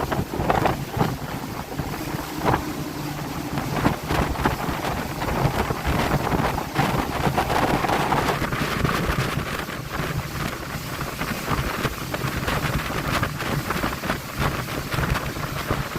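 Motorboat running underway with its new engine: a steady low engine drone under heavy wind buffeting on the microphone and the rush of water.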